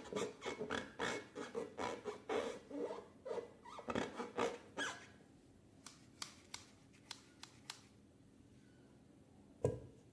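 Hands squishing and working slime: a quick run of sticky squelches for about five seconds, then a few sharp clicks, and one louder thump near the end.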